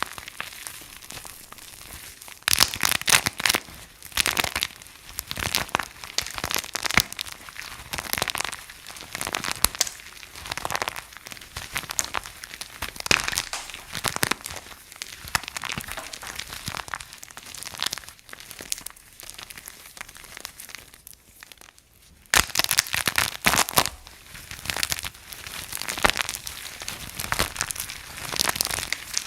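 Soap being crushed, crunching and crackling densely. There are louder spells a few seconds in and again after a brief lull about three quarters of the way through.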